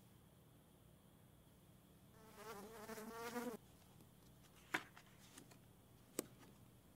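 Computer mouse clicking sharply, the two loudest clicks about a second and a half apart, over a low steady hum. Before the clicks comes a wavering buzz lasting about a second and a half.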